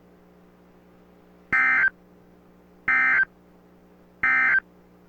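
Three short EAS end-of-message data bursts from NOAA Weather Radio station KZZ65, each a fraction of a second of warbling digital screech, evenly spaced about a second and a third apart, closing the High Wind Warning broadcast. A faint steady hum runs beneath them.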